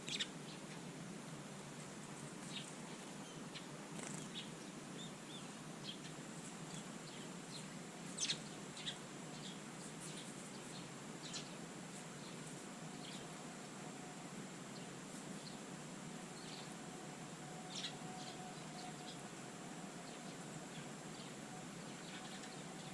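Small songbirds chirping now and then, short high notes scattered over a steady background hiss, with a few louder, sharper notes standing out.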